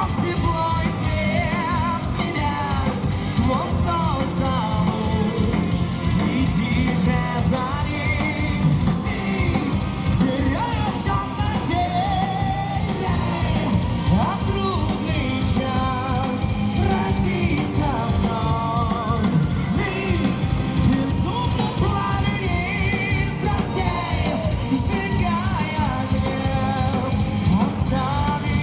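Live heavy metal band playing a song loudly: electric guitars and a drum kit keeping a steady driving beat, with a wavering, vibrato melody line on top.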